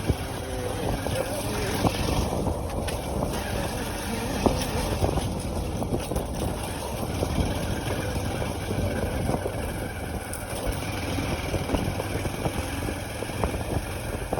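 Motorcycle being ridden, its engine noise mixed with steady wind buffeting the microphone and scattered sharp knocks.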